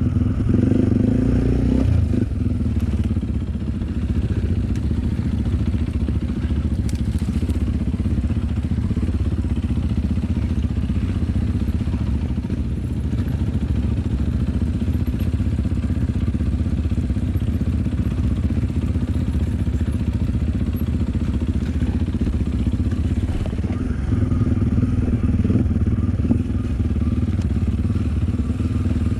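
Enduro dirt-bike engine running steadily while riding, with its note louder near the start and again near the end.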